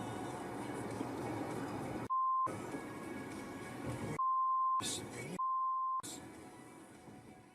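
Three censor bleeps, each a steady pure tone that blanks out all other sound: a short one about two seconds in, then two longer ones about four and five and a half seconds in, over background music that fades away near the end.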